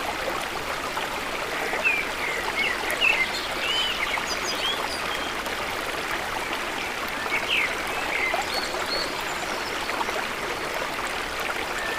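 River water flowing steadily, with birds chirping over it: short whistled notes scattered through, a cluster about two to three seconds in and another about seven and a half seconds in.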